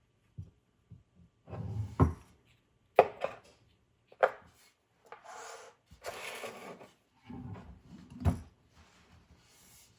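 Hands handling the parts of a screen cleaner kit: several sharp knocks as items are set down or tapped, with rubbing and rustling between them.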